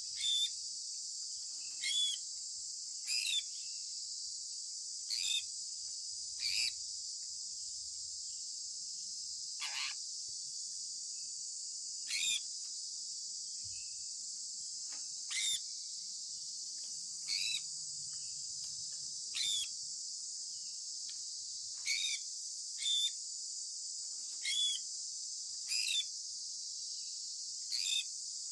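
Sun conure parrot giving short, downward-sliding chirps, one every second or two, over a steady high-pitched background hiss.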